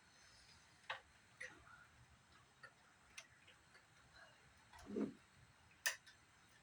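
Scattered faint clicks and taps of a knife working at a zip tie among the plastic and metal parts of a CRT monitor, with a duller knock about five seconds in and a sharp click just before the end.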